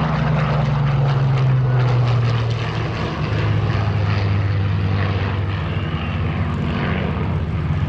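Rolls-Royce Merlin V12 piston engines of a WWII warbird flying past, a steady propeller drone whose pitch drops over the first three seconds as the aircraft goes by.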